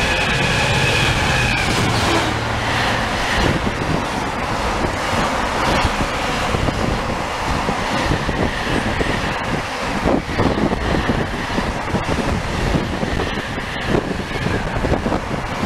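A freight train of container wagons passing at speed behind Class 66 diesel locomotives: a steady engine note in the first couple of seconds, then the rumble of the wagons with a repeated clatter of wheels on the rail joints.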